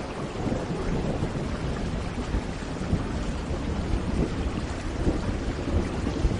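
Thunderstorm: steady rain falling, with a low rumble of thunder underneath.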